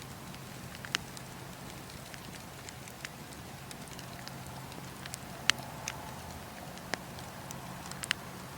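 Campfire crackling: sharp snaps and pops of burning wood at irregular intervals of a second or two, the loudest about halfway through, over a steady soft hiss.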